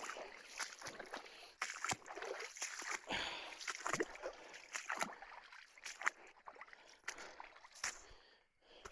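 Irregular splashing and sloshing of water, like steps wading through shallow water in a mine tunnel.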